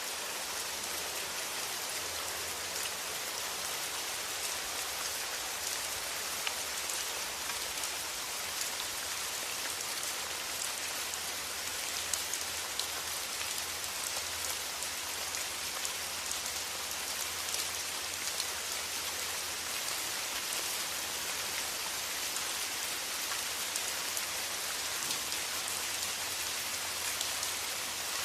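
Steady rain falling, a constant hiss with scattered drop ticks, over a faint low steady hum.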